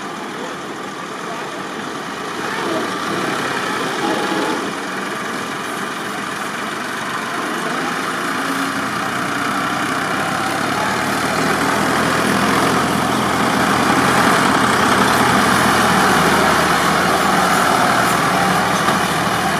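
Diesel tractor engines running hard under heavy load, a dense steady engine noise that swells louder through the middle and latter part.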